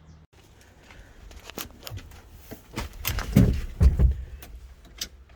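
Scattered clicks and knocks of handling work, with two heavier thumps about three and a half and four seconds in.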